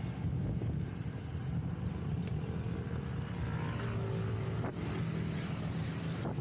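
Honda PCX160 scooter engine running steadily while riding.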